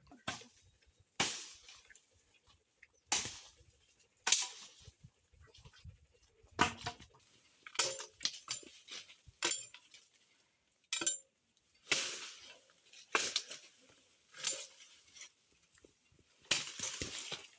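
Firewood being chopped with a blade: about a dozen sharp strikes at uneven intervals of one to two seconds, each with a short ring.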